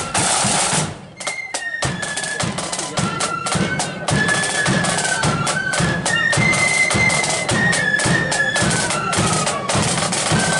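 Marching flute band playing a tune, high flutes carrying the melody over a steady beat of bass and side drums. A loud burst of noise fills the first second.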